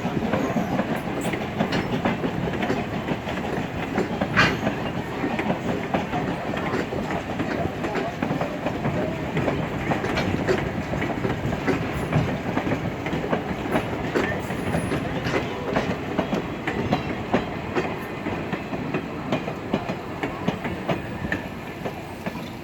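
Excursion train backing past on the track, a steady rolling rumble with the wheels clicking over rail joints, easing slightly near the end.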